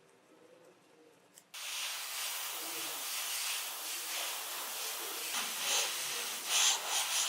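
Paint being sprayed onto diecast model car parts: a loud, steady hiss that starts abruptly about one and a half seconds in.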